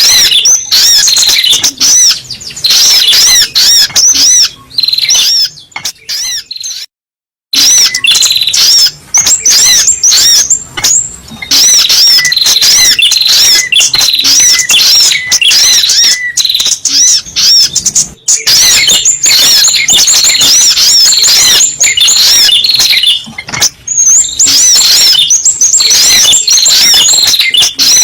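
Sogok ontong bird song from a lure recording: rapid, unbroken strings of high, looping chirps. It cuts out to silence for about a second a quarter of the way in.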